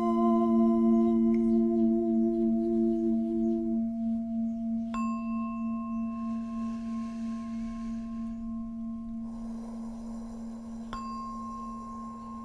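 Singing bowl ringing with a slow pulsing wobble, fading gradually; about five seconds in and again near the end a light strike adds a new, higher ringing tone.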